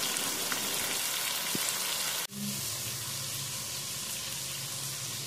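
Chicken pieces frying in hot oil in a kadai, a steady sizzle. About two seconds in it breaks off abruptly, then carries on quieter with a low hum underneath.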